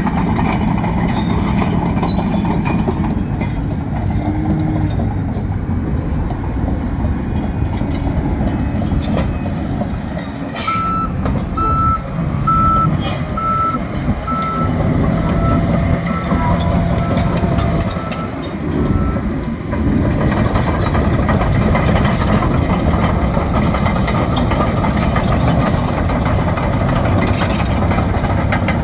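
John Deere 750K LGP crawler dozer's diesel engine running steadily, with its backup alarm beeping evenly, a little more than once a second, for about eight seconds in the middle as the dozer reverses, the beeps growing fainter toward their end.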